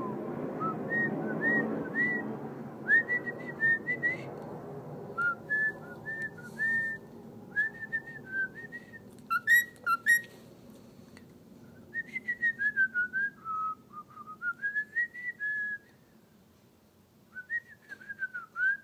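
A person whistling a simple tune in short gliding notes to a pet cockatiel, with a few short, sharp high chirps from the cockatiel about ten seconds in.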